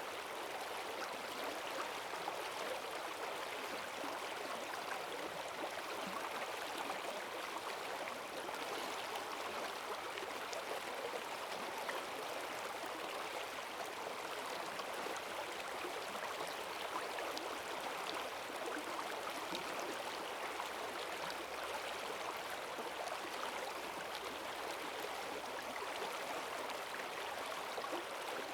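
Forest stream swollen by heavy rain, its strong current rushing and gurgling steadily.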